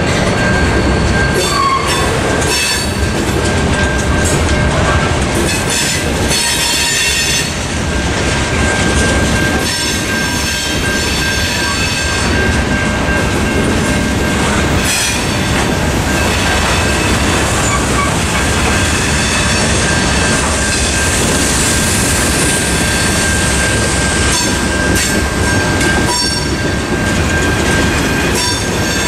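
Loaded freight cars rolling steadily through a grade crossing, with knocks from the wheels and short bursts of high wheel squeal. Under it runs the steady electronic ring of a Safetran Type 3 crossing bell.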